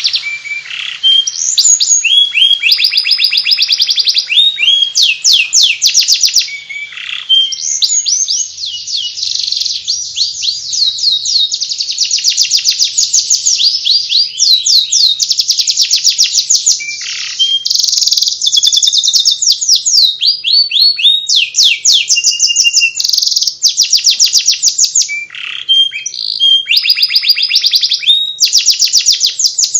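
Domestic canary singing non-stop in the Indonesian 'ngeriwik' style: rapid, high trills and chattering runs that follow one another with only brief breaks.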